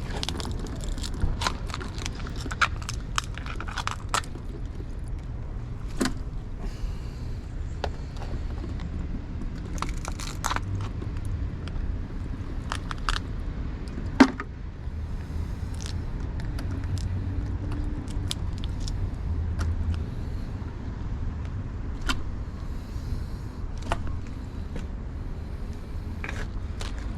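Light metallic clinks and knocks from handling cooking utensils, scattered irregularly, over a steady low rumble; one sharper knock stands out about halfway through.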